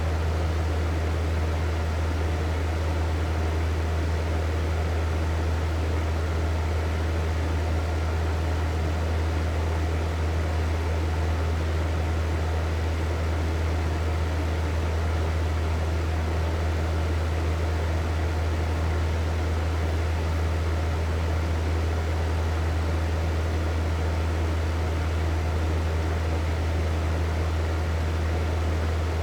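Hair dryer running steadily: a constant airy rush over a strong, deep motor hum.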